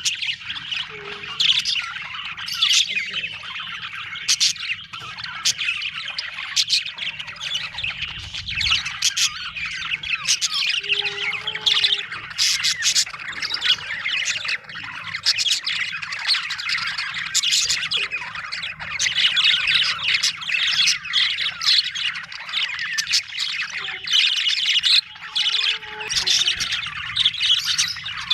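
Budgerigars chirping and chattering without a break: a dense stream of overlapping high warbles, punctuated by many sharp squawks.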